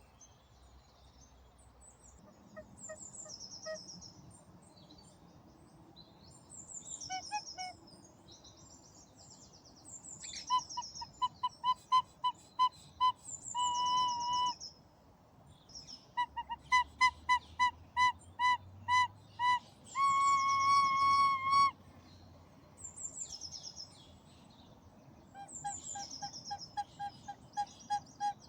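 A songbird repeats a short, high phrase of quick falling notes every few seconds. Over it a recorder plays runs of short, evenly tongued notes and two long held notes about halfway through, then another run of repeated notes near the end.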